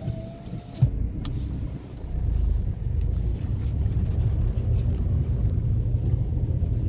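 A car's engine and road rumble heard from inside the cabin as it drives off, growing louder about two seconds in and then running steadily. There is a single sharp click just under a second in.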